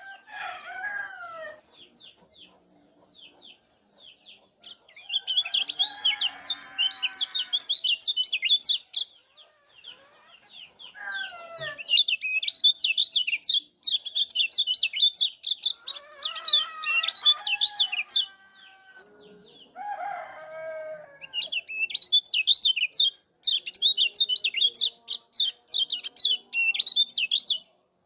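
Kecial kuning white-eye giving rapid, high ciak chirps in long bouts, with shorter pauses between them. Lower, falling calls from other birds come in between.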